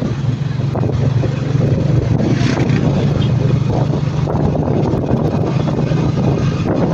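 Motorcycle engine running steadily while riding, a constant low drone with wind buffeting the microphone.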